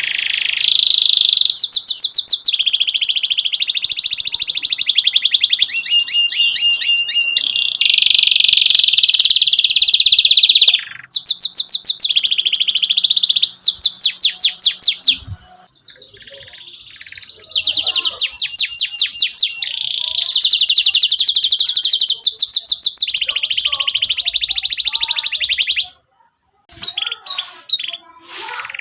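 Domestic canary singing long, fast trills and rolling phrases of rapid repeated notes. The song breaks off briefly about halfway through and again near the end.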